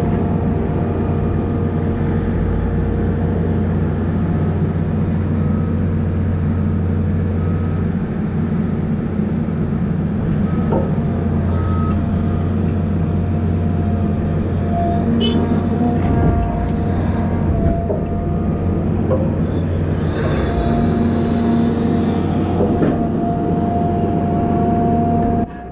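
Volvo A25G articulated haul truck's diesel engine running steadily under way, a constant deep hum with a faint whine on top and occasional light knocks and rattles.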